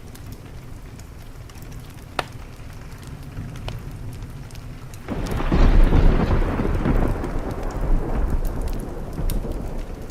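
Wood fire crackling with a few sharp pops over steady rain, then a little past halfway a sudden clap of thunder breaks in and rumbles on, slowly fading.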